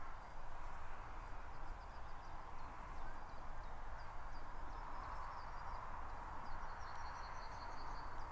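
Outdoor ambience: a small bird chirping in quick series of short high notes, closing with a brief trill near the end, over a steady hiss and a low rumble.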